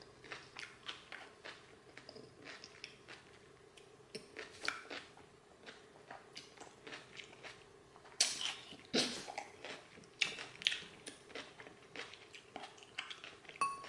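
A mouthful of crunchy salad being chewed close to the microphone: a run of soft, irregular crunches, busier and louder about eight to eleven seconds in.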